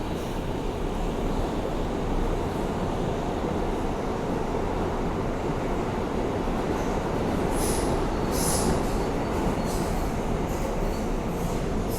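Interior of an R160A subway car running between stations: a steady rumble of wheels and motors on the track, with short high-pitched wheel squeals about two-thirds of the way through.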